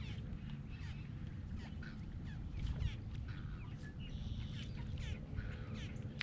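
Birds calling: a string of short falling chirps mixed with a few harsher, buzzy calls, over a steady low rumble.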